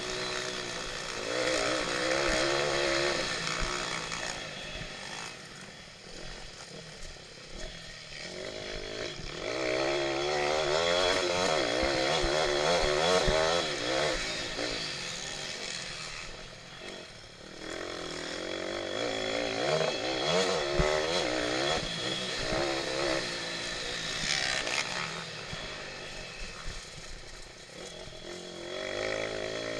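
Pit bike engine revving hard and easing off again and again, its pitch wavering up and down as the throttle opens and closes, with the revs dropping briefly about every five to eight seconds.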